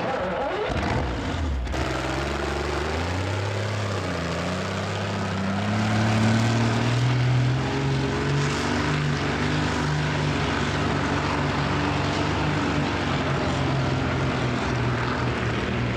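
Competition pulling tractor's engine running hard under load. Its pitch dips early on, climbs steadily over the next few seconds, then holds at a high, steady note.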